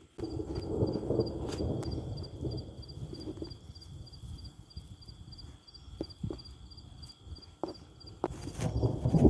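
Insects chirping in a steady rhythm, about four pulses a second, over a louder low rumbling noise that swells near the end, with a few sharp clicks.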